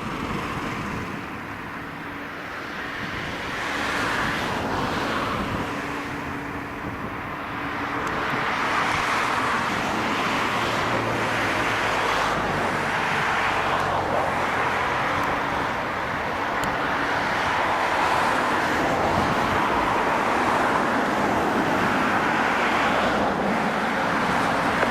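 Airbus A330-200 jet engines: a steady rushing roar as the airliner comes in to land. It swells about four seconds in and again from about nine seconds on.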